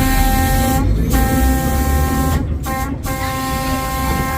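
Trolley car air horn sounding a series of blasts, one steady pitch with strong overtones, broken off three times by short gaps, over the low rumble of the moving car.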